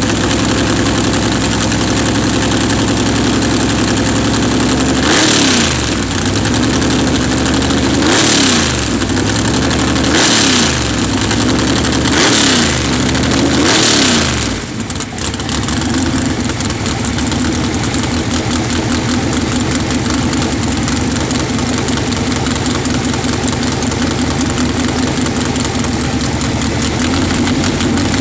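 Pro Comp drag racing engine idling loudly on open headers with a lumpy beat, blipped five times in quick succession between about five and fourteen seconds in, each rev rising and falling back to idle.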